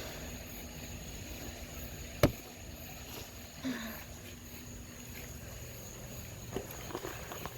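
A single sharp crack about two seconds in, against a quiet steady background with a faint high whine. A few much fainter ticks follow near the end.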